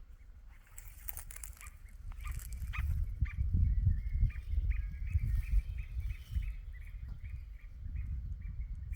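A bird calling over and over in short high notes, about three a second, starting a few seconds in, over a low uneven rumble of wind on the microphone.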